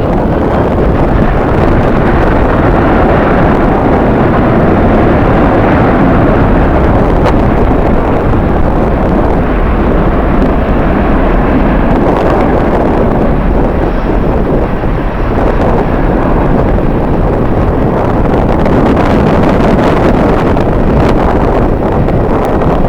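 Strong wind buffeting the microphone: a loud, steady, noisy rumble with no clear pitch.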